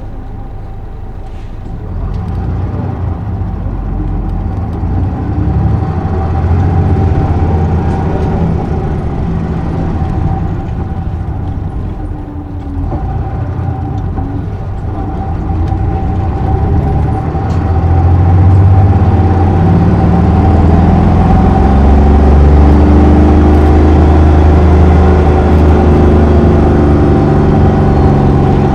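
Isuzu Erga PJ-LV234L1 city bus heard from inside the cabin while under way: the diesel engine and road noise swell about two seconds in, ease off near the middle, then build to their loudest for the last third. A steady high hum runs underneath.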